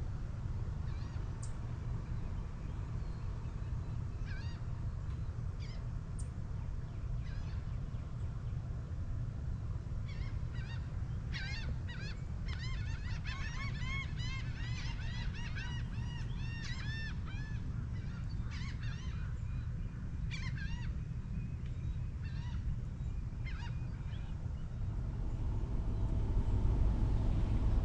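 Birds calling over the water: scattered single calls, then a dense, fast run of repeated arched calls in the middle, then scattered calls again. Underneath is a steady low rumble that grows louder near the end.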